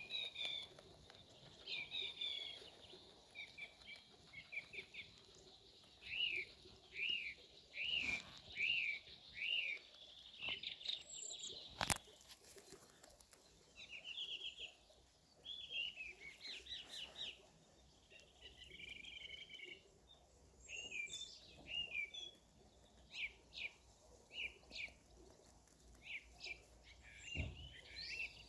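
Small songbirds chirping and singing in the background, including a run of six evenly spaced rising-and-falling notes. There is a single sharp click about twelve seconds in.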